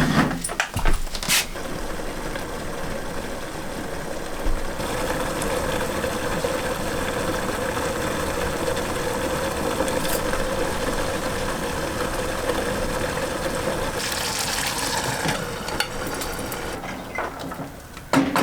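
A few knocks, then a small motor running steadily at a constant pitch for about fifteen seconds before it dies away near the end.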